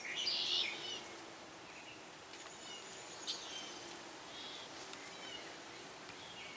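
Wild birds calling: a loud, harsh call in the first second, then scattered fainter chirps and short whistles.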